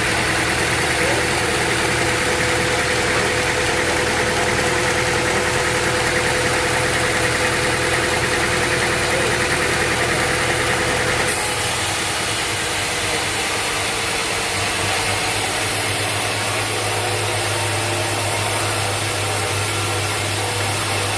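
Sawmill machinery running steadily with a constant engine-like hum. The sound changes abruptly about eleven seconds in.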